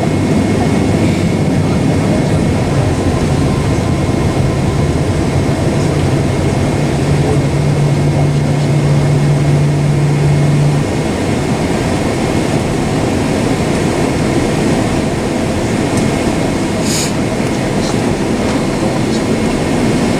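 Steady roar of a Boeing 767-400's jet engines heard inside the passenger cabin, with a low hum that stops about eleven seconds in, where the noise eases slightly.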